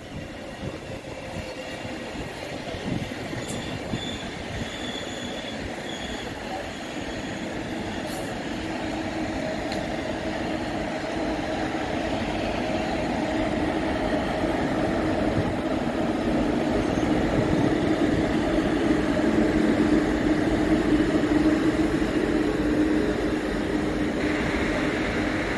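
Deutsche Bahn ICE (Intercity Express) high-speed train running past on the station tracks: a rumbling rush of wheels on rail that grows steadily louder over the first twenty seconds, with a steady hum joining in about nine seconds in. A few faint, high-pitched wheel squeals come a few seconds in.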